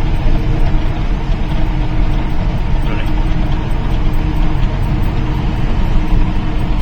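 Goods truck's engine and road noise heard inside the cab while cruising on the highway: a steady drone with a constant low hum.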